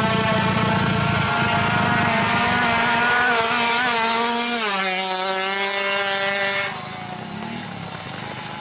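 Drag-racing motorcycle engines held at high revs with a steady buzzing pitch. The pitch steps down a little after about four and a half seconds, and the sound cuts off sharply near the end.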